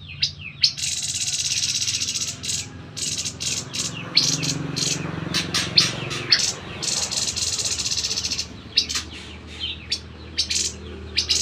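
Grey-headed babbler (tepus kepala abu) calling: a run of sharp, high chipping notes broken by two long, buzzy rattling trills, the first about two seconds long starting just under a second in, the second about a second and a half long starting about seven seconds in.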